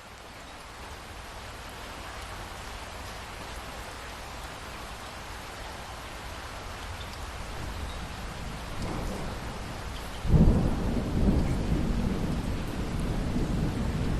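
Steady rain falling, with a thunderclap breaking suddenly about ten seconds in and rolling on as a loud low rumble to the end, after a slowly building low grumble.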